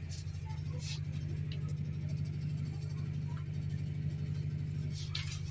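Steady low rumble inside a train sleeper carriage, with a few light clicks and rattles about a second in and near the end.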